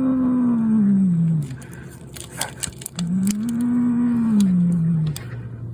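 Domestic cat growling: two long, low, drawn-out growls that rise and then fall in pitch, each about two seconds, with a short break of small clicks between them.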